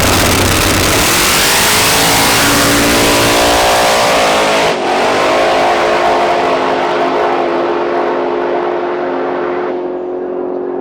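Drag race car launching and accelerating hard down the strip, its engine note climbing in pitch, with a brief break about five seconds in as it changes gear. The sound then steadies and grows duller and fainter as the car pulls away.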